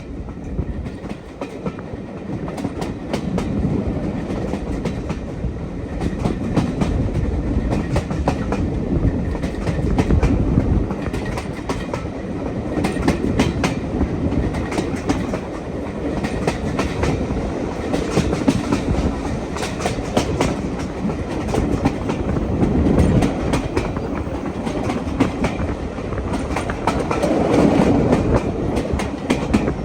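A train running along the track: a steady rumble with the wheels clicking over rail joints, swelling and easing in loudness.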